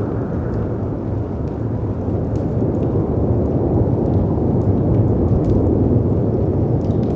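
A layered storm ambience: a steady low roar of wind and sea surf that swells a little midway, with faint, scattered crackles from a wood fire.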